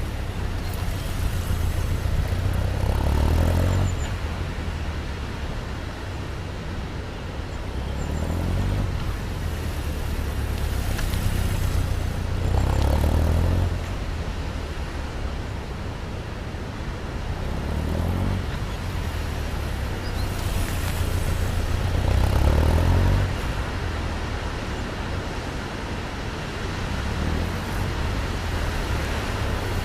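Honda CB1100's air-cooled inline-four engine rising and falling in loudness roughly every four to five seconds as the bike is ridden through tight figure-eight turns, with wind noise underneath.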